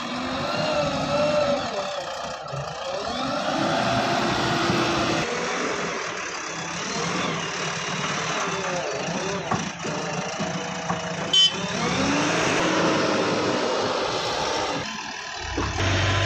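Diesel engine of a JCB backhoe loader working, its pitch rising and falling again and again as the hydraulics take load. There is one sharp knock about two-thirds of the way through, and near the end the sound changes abruptly to a steadier low hum.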